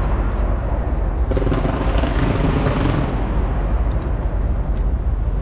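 Large fireworks display going off overhead: a continuous rumble of aerial bursts, with a few sharp cracks standing out through it.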